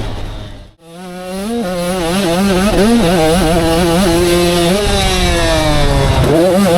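85cc two-stroke motocross bike engine revving hard, its pitch rising and falling quickly with throttle and gear changes. The sound cuts out for a moment just under a second in, then comes back.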